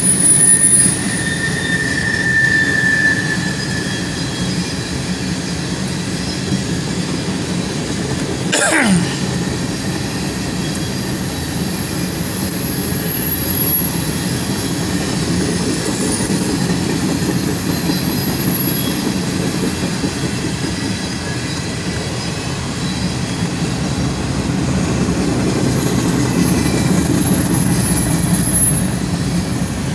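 A CSX freight train's covered hopper cars roll past with a steady rumble of wheels on rail. High-pitched wheel squeals come and go, and there is a quick falling sweep about nine seconds in.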